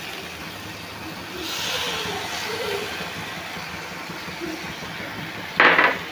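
Spiced masala frying with a soft, steady sizzle in a kadai over a gas flame while lumps of jaggery are scraped into it with a spatula. A brief, louder scrape comes near the end.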